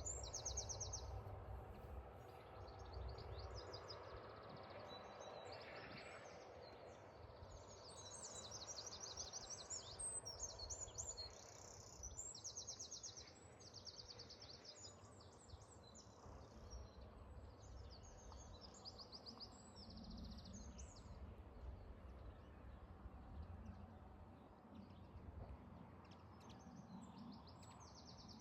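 Small birds singing, with repeated short, high, rapid trills, over a faint low rumble.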